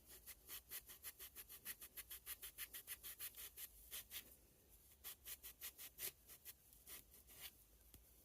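Faint, quick back-and-forth rubbing strokes on a pocket knife by hand, about five a second, a typical sound of sanding or scrubbing during its cleanup. The strokes pause briefly about four seconds in, then carry on more unevenly.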